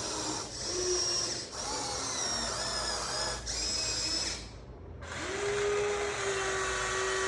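Small electric motors of a Huina 1593 RC excavator whining as it is worked, stopping and starting several times in short spurts. About two thirds of the way through there is a brief lull, then a steadier whine resumes.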